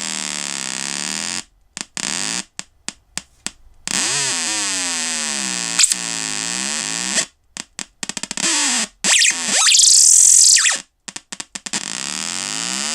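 Loud electronic buzz from a small speaker driven by a C002 alarm-module oscillator IC, its pitch sweeping down and back up as fingers on the circuit become part of the oscillator's timing. It keeps cutting out and stuttering on and off, with one long rising sweep in the second half.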